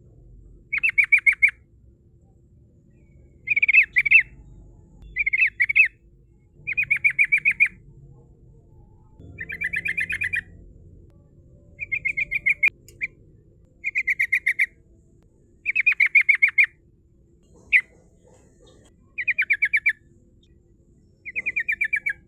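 Yellow-vented bulbul (trucukan) singing in short rolling bursts of rapid chattering notes. About a dozen bursts come one every second or two, each lasting under a second.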